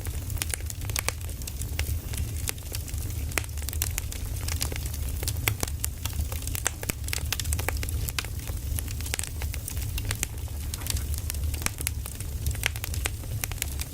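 Wood fire burning, with dense irregular crackles and pops over a steady low rumble.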